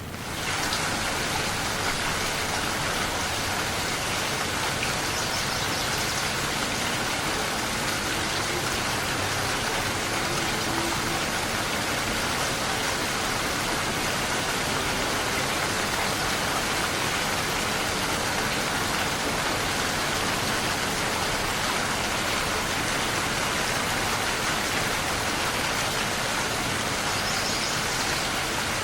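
Steady rain falling, a dense even hiss of drops; it rises in level at the very start and then holds steady.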